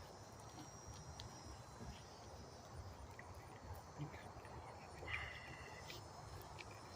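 Faint outdoor background: a low, steady rumble of wind noise, a few light clicks, and a brief high chirp about five seconds in.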